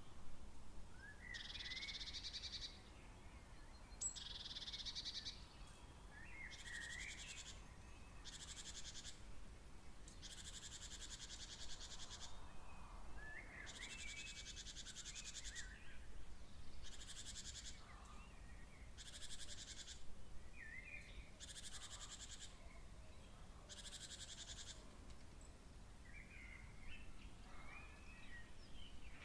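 Night birds calling: high buzzy trills a second or two long repeat about every two seconds, with short chirping calls lower down between them.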